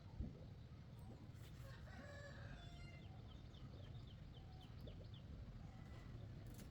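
Faint rooster crowing, followed by a quick run of high chirps from a small bird, over a low steady hum.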